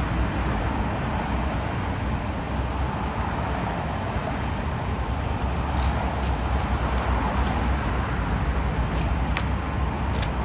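Heavy diesel construction machinery running steadily, with a low rumble and a few light clicks or knocks about halfway through and near the end.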